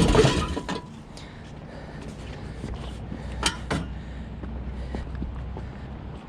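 A metal heat exchanger scraping as it is pushed into a packaged HVAC unit's cabinet for about the first second, then two sharp metal clanks about three and a half seconds in, over a low steady hum.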